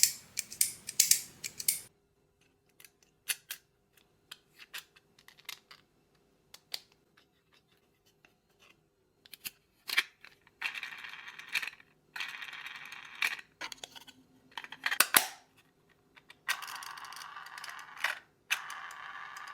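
3D-printed plastic mechanisms clicking and snapping as they are worked by hand. A quick run of loud clicks comes first, then scattered softer clicks, then from about ten seconds in two longer stretches of rapid ratchet-like clicking.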